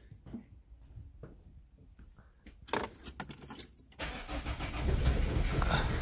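Small clicks, then the starter cranks the Renault Clio 2's 1.5 dCi four-cylinder diesel for about a second. The engine catches about four seconds in and settles into a low idle. Its injector seals are leaking compression, a fault that makes it run rough on three cylinders.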